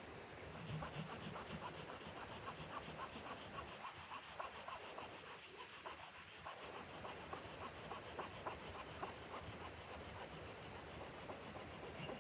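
Rapid, regular back-and-forth scraping strokes on wood, several a second, starting about half a second in.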